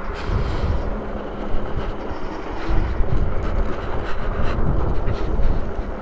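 Wind rumbling on the microphone and tyre noise of a Super73 RX electric bike rolling along a bumpy dirt trail, with a few short knocks from the bumps.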